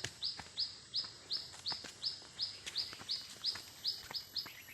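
A bird calling a long run of identical short, high notes, each sliding slightly downward, nearly three a second and coming a little faster near the end.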